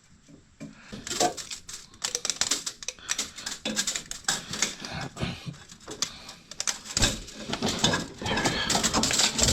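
Metal clinking and knocking as a just-removed exhaust header is handled and turned over, a run of quick irregular clicks and knocks.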